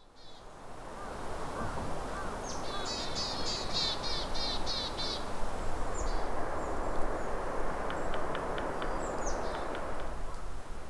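Outdoor forest ambience: a bird sings a quick run of repeated high notes a few seconds in, with more scattered calls later, over a steady background rush.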